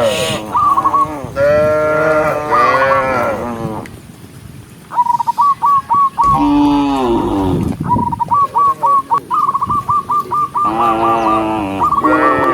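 Cattle mooing: several long, drawn-out moos, one after another. Between them a bird calls in quick runs of short repeated notes.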